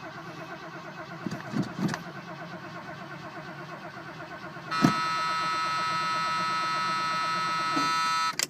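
Starter motor cranking a Ford Torino's V8 in an even, rhythmic churn that never catches: a cold start that fails. About five seconds in there is a click, then a louder steady whine for about three seconds before it cuts off.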